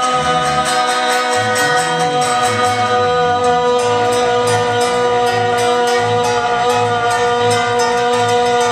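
Live music: one long held note over a moving bass line and a steady beat.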